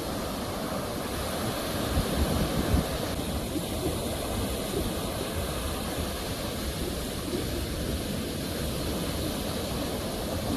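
Sea waves washing in a steady rush, swelling louder about two to three seconds in.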